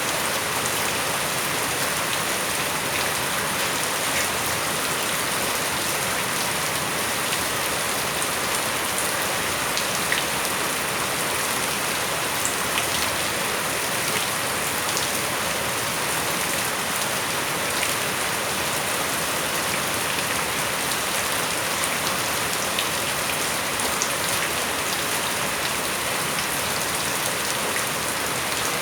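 Steady rain falling on surfaces, an even hiss with scattered drop ticks.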